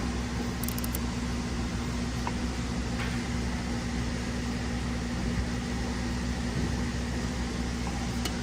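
Steady machine hum from shop equipment such as a fan or air conditioner, an even drone with a constant low tone. A few faint, brief clicks sound over it.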